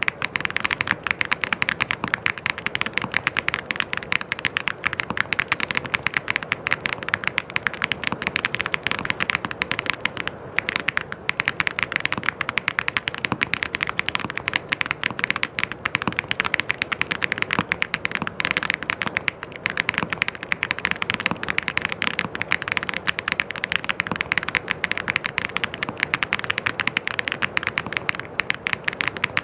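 Fast, continuous typing on a mechanical keyboard, a dense run of key clicks with brief pauses about ten and nineteen seconds in.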